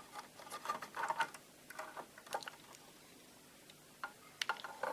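Faint, irregular light clicks and taps from handling a meter's test probes and small parts on the old generator's metal chassis, a little busier near the end.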